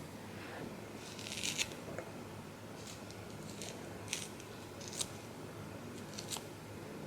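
A series of short, crisp, dry handling sounds, about one a second, with a longer rustle about a second in.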